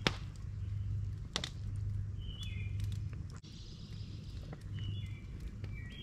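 A songbird repeating a short, stepped, descending phrase every couple of seconds over a steady low hum, with a sharp click right at the start.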